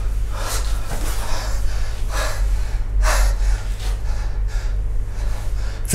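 A man gasping for breath, a string of loud, heavy gasps and pants, over a steady low hum.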